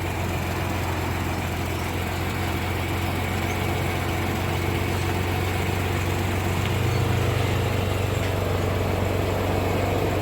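BMW E36 engine idling steadily, just started off a fully charged battery wired straight to the dead one's terminals. The idle note swells briefly about seven seconds in.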